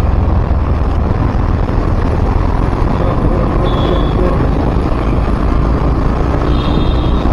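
Steady road and wind noise from a moving vehicle in city traffic, a loud, even rumble.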